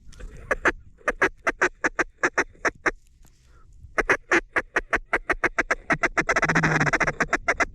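Mallard hen duck call blown in two series of loud, evenly spaced quacks. The second series runs into a rapid chatter near the end, a feed chuckle meant to coax circling mallards into the decoys.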